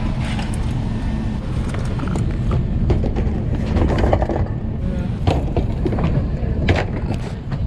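Steady low rumble of an Airbus A380's cabin air and ventilation at the gate, with faint murmur of passengers' voices. A couple of sharp clicks come in the second half.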